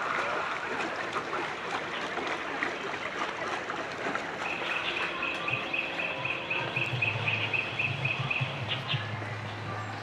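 Outdoor ambience with a bird calling in a quick, evenly spaced run of high chirps, about four or five a second, starting a little before halfway and stopping shortly before the end. A low steady hum comes in during the second half, over a constant background hiss.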